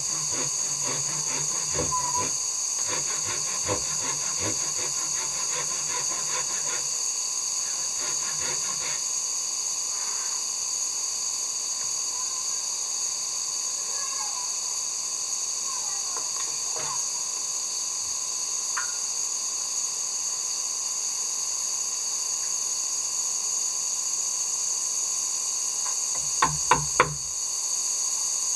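Steady high-pitched hiss, with light clicks and knocks scattered through the first part and a few sharper knocks near the end.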